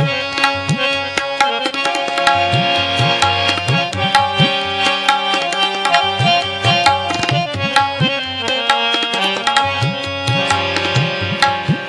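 Instrumental interlude of Sikh kirtan: tabla playing a busy rhythm with swooping bass-drum strokes under harmonium holding and moving through a melody, with no singing.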